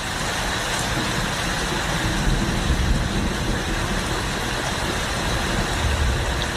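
Steady rumbling noise, heaviest in the low end, with no speech.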